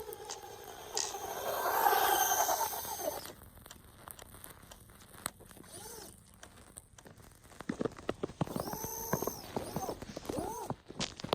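Traxxas Rustler 2WD RC truck's electric motor whining up and down in short throttle bursts as its tyres churn through snow. It is loudest about two seconds in; near the end comes a run of quick clicks with more throttle bursts.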